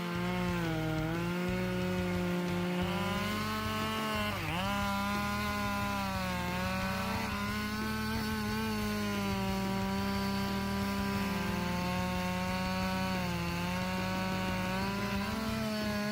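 Husqvarna 572 XP two-stroke chainsaw running at full throttle and cutting through dry wood. Its engine note holds steady and dips sharply once about four seconds in as the chain loads up, then recovers.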